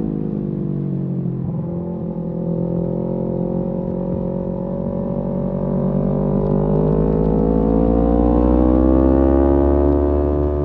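Kawasaki Z250's parallel-twin engine through a SeaPro aftermarket muffler, pulling in one gear. The exhaust note dips a little in the first second or so, then climbs slowly and steadily as revs build, loudest near the end.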